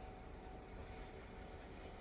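Faint, steady low rumble of a diesel train, with a thin steady tone above it.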